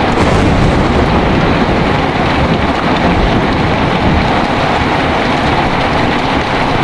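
Heavy rain with strong wind: a steady, loud roar with a deep rumble underneath and no single claps or hits.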